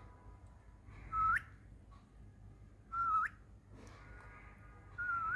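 Pet parakeet whistling three short notes about two seconds apart, each a held note that sweeps sharply up at the end.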